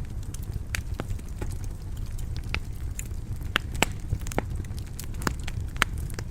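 Wood fire burning in a stone fireplace: a steady low rumble with irregular crackles and a few sharper pops.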